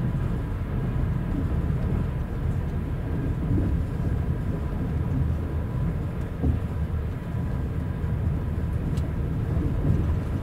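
Passenger train running steadily, heard from inside a compartment as an even low rumble with a faint steady hum. There is a light click about nine seconds in.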